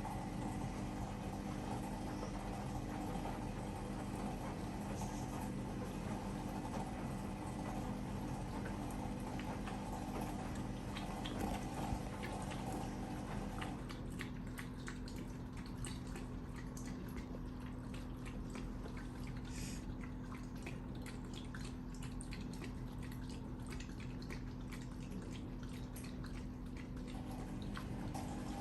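Hotpoint dishwasher pump running with a steady hum, water swishing and dripping inside the tub. About halfway through the sound changes: a mid-pitched rush drops away and a patter of drips and splashes comes through.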